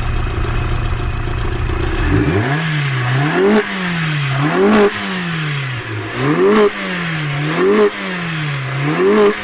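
A vehicle engine idling, then revved repeatedly: about two seconds in it begins about six blips of the throttle, each climbing in pitch to a loud peak, cutting off sharply and sinking back toward idle.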